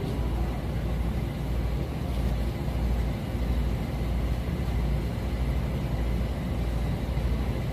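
Steady low rumble of outdoor street ambience, with no distinct events.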